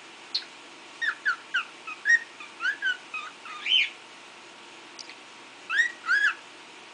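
Cockatiel whistling and chirping a rambling string of short notes, then, after a pause, two rising whistles near the end.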